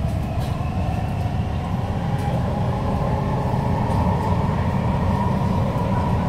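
MTR South Island Line S-Train heard from inside the car while running: a steady rumble of wheels on rail with a motor whine that slowly rises in pitch as the train gathers speed.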